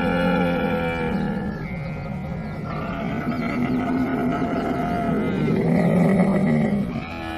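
Camel groaning and bellowing in long, rough, gurgling calls, one after another, with a louder call about six seconds in.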